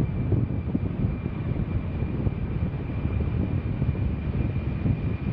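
C-5M Super Galaxy's turbofan engines running: a steady low rumble with a thin high whine held over it.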